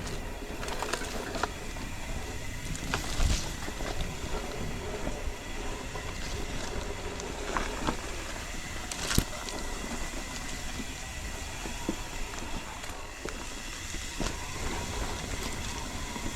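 Mountain bike riding over a rough, overgrown forest trail: steady rolling and rattling noise from the tyres and bike, with frequent sharp knocks and clicks, the loudest about three and nine seconds in.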